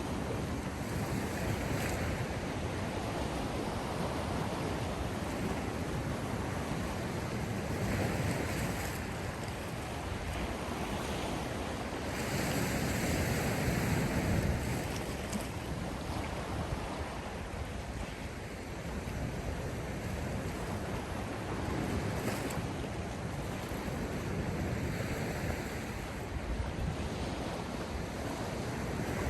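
Sea waves breaking and washing in a continuous rush, swelling every few seconds.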